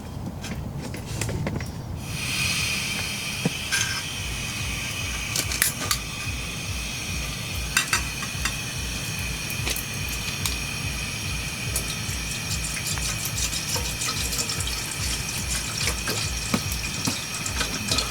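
Rain falling and dripping, with many scattered drops tapping sharply. About two seconds in, a steady high-pitched whine of several tones joins it and holds.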